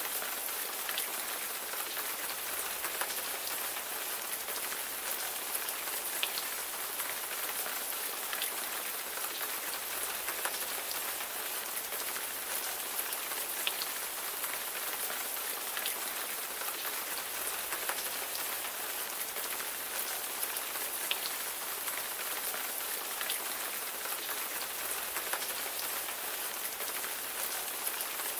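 Steady rain: an even hiss of falling rain with scattered individual drops ticking out here and there.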